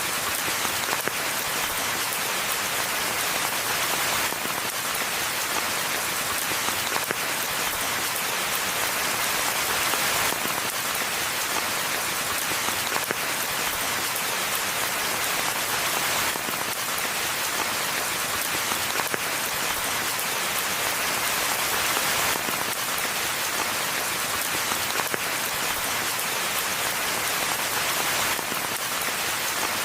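Steady rain falling on forest foliage and ground, a dense even patter of many fine drops, mostly high in pitch.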